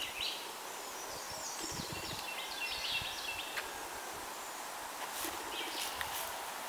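Outdoor ambience with birds calling: a short chirp at the start, a quick run of falling high notes in the middle, and another brief chirp about five seconds in, over a steady background hiss.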